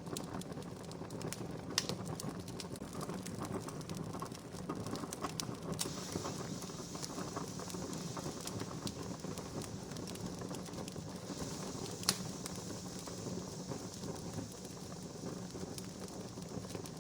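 Wood campfire crackling: a steady hiss with many small ticks and scattered sharp pops, the loudest about two seconds in and about twelve seconds in. The hiss grows brighter about six seconds in.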